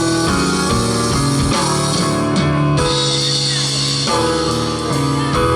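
Gospel band playing an instrumental passage with no singing: sustained chords over a bass line, changing about every second.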